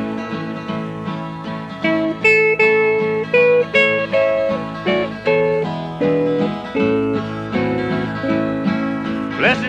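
Instrumental break in a country gospel song: a lead guitar picks out the melody in single plucked notes over a steady guitar backing.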